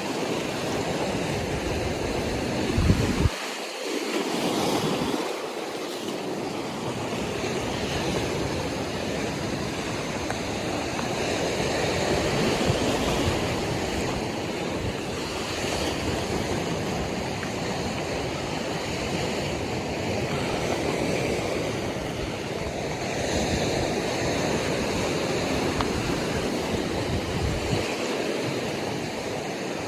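Ocean surf washing steadily against the atoll shore, with wind buffeting the microphone in gusts.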